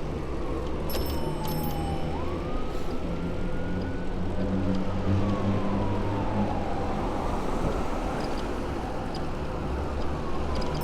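Emergency-vehicle siren wailing, its pitch sliding slowly up and down every few seconds, over a steady low rumble of city traffic.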